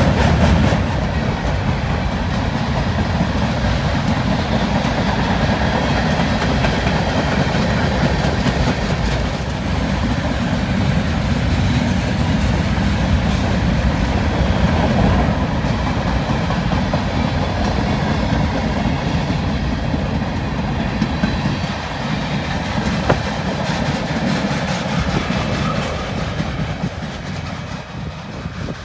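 Train cars rolling past, wheels clattering steadily over the rail joints, growing fainter near the end.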